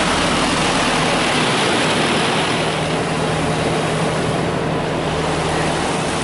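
Touchless car wash's high-pressure rinse jets spraying water over the car, heard from inside the cabin as a loud, steady, dense hiss. A low steady hum joins about a second in.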